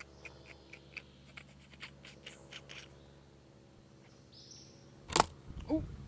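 Short high bird chirps, a few a second, in woodland. About five seconds in, a single sharp knock as the camera is bumped, followed by handling noise and a brief voice sound.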